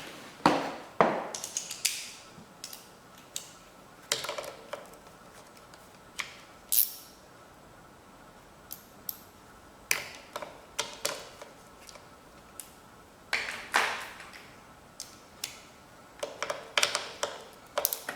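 Irregular clicks, taps and clatter of hand tools and parts being handled at the mower's air filter housing, in short clusters with pauses between them.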